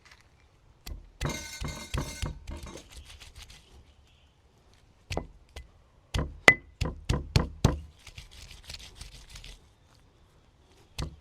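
Sharp knocks and clinks in quick runs of a few strokes a second, with one ringing clink a little past the middle, as ginger and garlic are prepared for a green masala.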